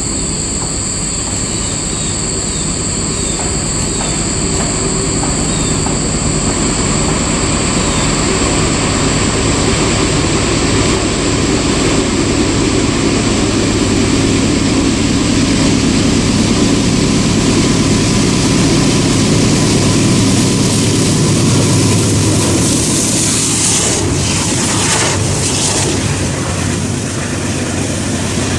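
Norfolk Southern freight train rolling past, a steady rumble of cars on the rails, with high-pitched steady tones over it in the first several seconds.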